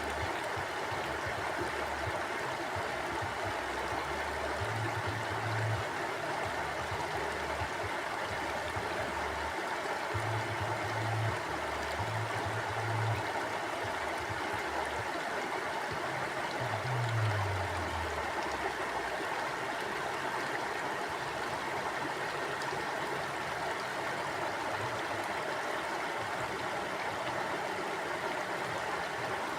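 Mountain stream flowing steadily: a continuous, even rush of water. A few brief low rumbles rise under it about five, eleven and seventeen seconds in, the last one falling in pitch.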